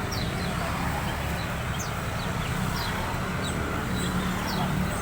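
A caged songbird, the kind hobbyists call a boxer bird, giving short high chirps that slide downward, about one a second, over a steady low rumble.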